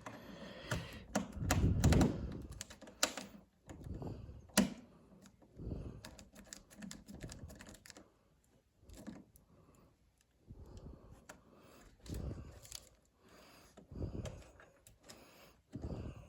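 Irregular small clicks and light knocks of hands working at a thermostat's wiring and plastic base, with a few dull thumps among them, the loudest about two seconds in.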